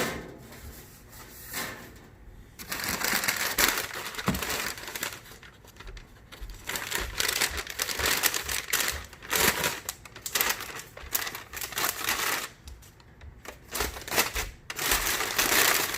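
Packing material being crumpled, rustled and torn by hand in long irregular spells as painted parts are pulled out of a box. It is quieter for the first couple of seconds and again briefly near the end.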